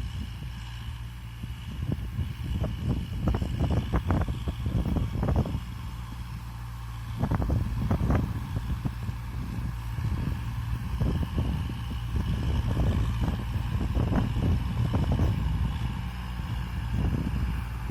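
Kubota M6040SU tractor's diesel engine running steadily under load while pushing soil, rising and falling in loudness. Irregular short clanks and knocks come throughout.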